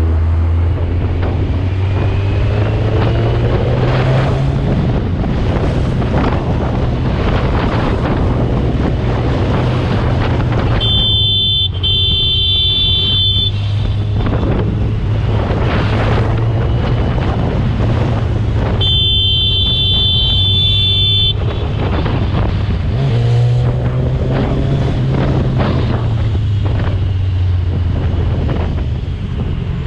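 Superbike engine running while riding through traffic, its pitch stepping up a couple of times, with wind rushing over the microphone. A horn sounds twice, each blast about two and a half seconds long.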